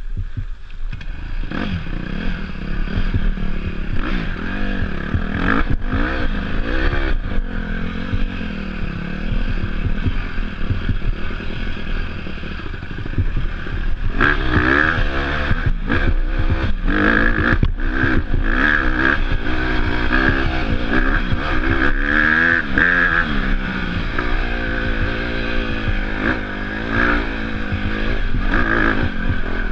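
Dirt bike engine running under throttle, its pitch rising and falling again and again, with scattered knocks and rattles. It is louder and busier from about halfway through.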